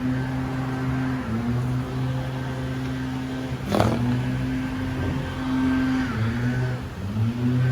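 A vehicle engine running steadily at idle, its hum dipping briefly now and then, with one sharp knock about four seconds in.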